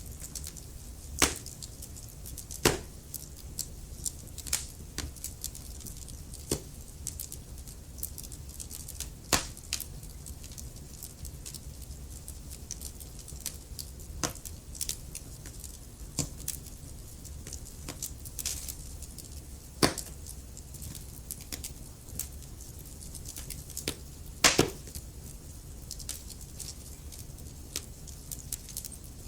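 Wood fire crackling: irregular sharp pops and snaps from burning logs, a handful much louder than the rest, over a low steady rumble of the flames.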